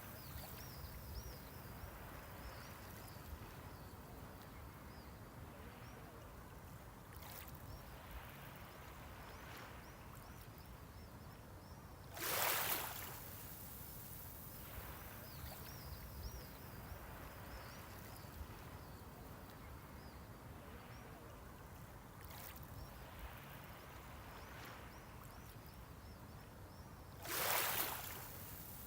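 Gentle sea waves washing onto the shore, each wave rushing in and fading. The two loudest come about fifteen seconds apart, over a steady low rumble, with faint high chirps that sound like small birds.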